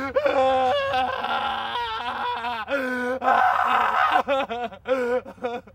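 A high-pitched voice making wordless sounds, drawing out long wavering notes that rise and fall, with brief breaks between them.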